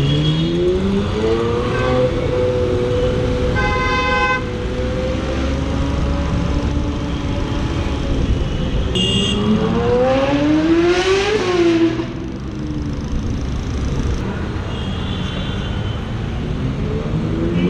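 A supercar engine accelerating hard: its pitch climbs in the first two seconds, holds high for several seconds, then rises steeply to a peak about eleven seconds in and drops sharply. Short car-horn toots sound about four and nine seconds in.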